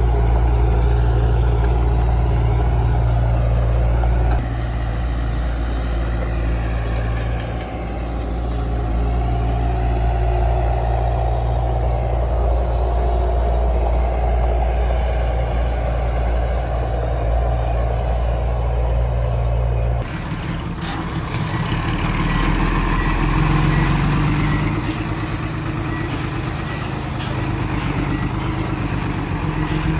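Heavy diesel engine of earthmoving machinery running steadily with a low drone. About two-thirds of the way through, the sound switches abruptly to a rougher engine note with clattering over it.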